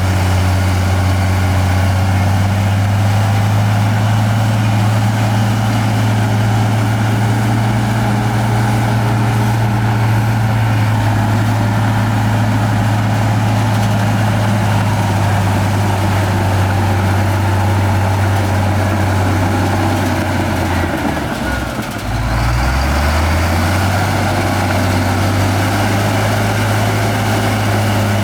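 Heavy diesel engine of earthmoving machinery running steadily, with a low, even hum. About three-quarters of the way in the engine bogs down briefly, its pitch dropping, then recovers to its steady speed.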